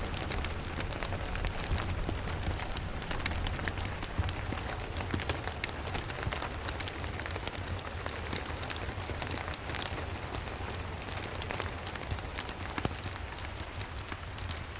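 Steady rain falling on the cabin, with fine scattered crackles of a wood fire in a fireplace and a low steady rumble underneath.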